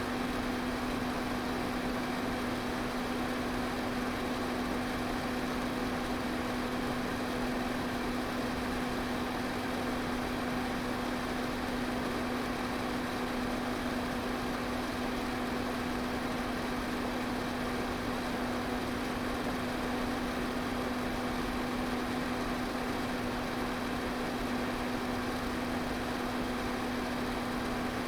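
Electric pedestal fan running steadily: an even rush of air over a constant motor hum.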